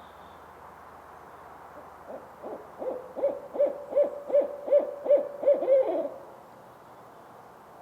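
Barred owl hooting: a quick run of about ten hoots, a little under three a second, growing louder, ending in a drawn-out note that slides down.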